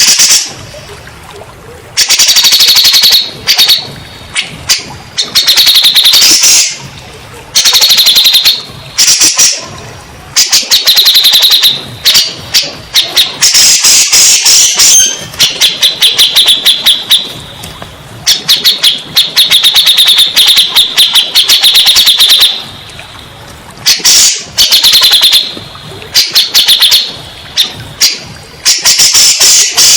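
Cucak jenggot (grey-cheeked bulbul) singing loudly in rapid chattering bursts of about one to two seconds, repeated with short gaps between them.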